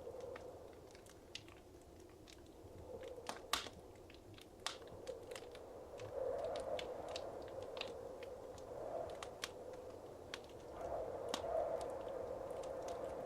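Wood fire crackling in a fireplace: irregular sharp pops and snaps, the loudest about three and a half seconds in, over a soft steady rushing of the flames.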